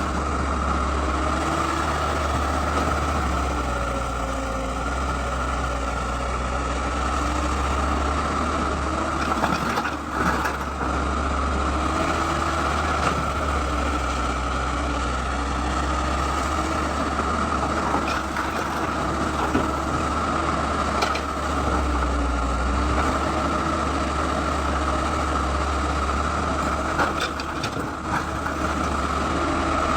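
Excavator's diesel engine running steadily, its pitch wavering slightly, with a few sharp knocks scattered through.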